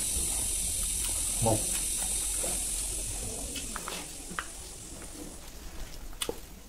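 Close-up eating sounds of a person chewing a mouthful of rice and fried silkworm pupae, with wet mouth sounds and scattered sharp clicks that grow more frequent in the second half, and one short low sound about one and a half seconds in. A steady hiss underneath fades out about five seconds in.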